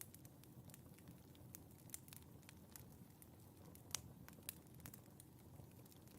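Wood fire in a fireplace crackling softly: scattered sharp pops and ticks, the loudest about four seconds in, over a low steady rumble of the flames.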